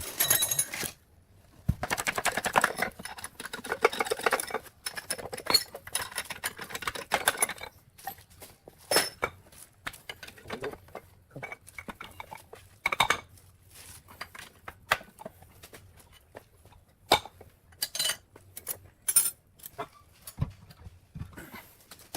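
Metal parts and hand tools clinking and clattering in irregular sharp knocks, with a dense stretch of rattling and scraping a couple of seconds in.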